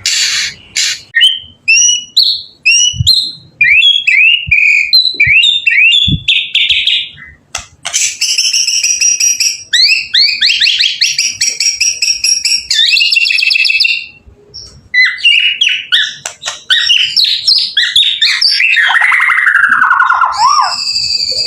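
White-rumped shama singing a varied song. It opens with a string of short rising whistled notes, moves into rapid buzzy trills after a brief pause, and ends in a busy run of notes with falling slurs.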